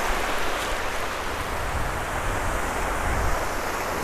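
Surf washing onto a sandy beach, a steady rush of noise, with wind rumbling on the microphone.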